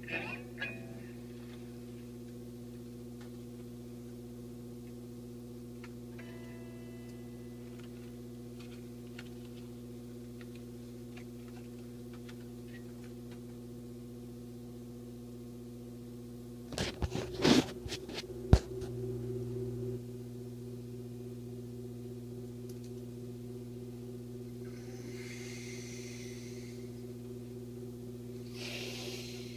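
Steady low electrical hum, with a cluster of loud clicks and knocks about 17 to 18 seconds in and two short hisses near the end.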